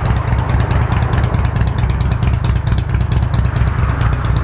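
Yamaha Stratoliner's 1854 cc air-cooled V-twin idling steadily through its factory 2-into-1 exhaust, with a fast even mechanical ticking over the low pulse.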